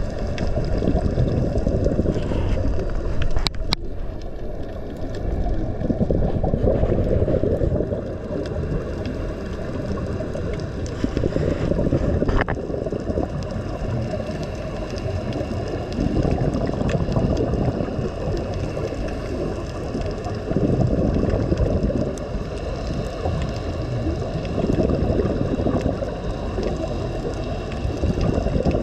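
Muffled, gurgling water noise that swells and fades every four or five seconds, with a couple of faint clicks.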